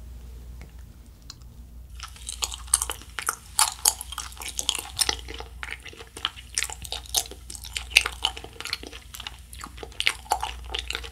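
Close-miked chewing of a Planet Gummi, the globe-shaped gummy candy with a juicy filling: a dense run of small sharp clicks and crackles from the mouth, starting about two seconds in.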